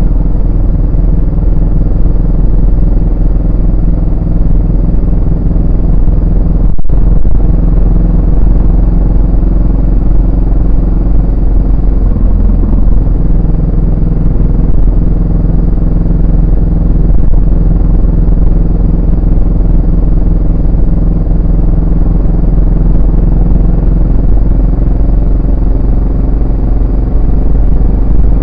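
Yamaha SR400's air-cooled single-cylinder four-stroke engine and exhaust running steadily while riding. The sound cuts out for an instant about seven seconds in, and the engine note dips briefly around twelve seconds in.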